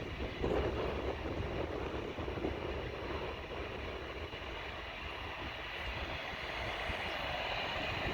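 Jet airliner engines heard as a steady noise with a low rumble.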